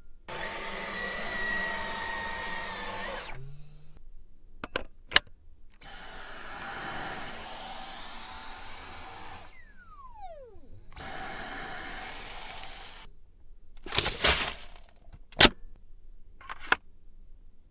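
Cordless stick vacuum motor switched on and run in three short bursts, each with a high steady whine and each cut off abruptly. A falling whine follows the second burst as the motor winds down, and there are sharp clicks between and after the runs.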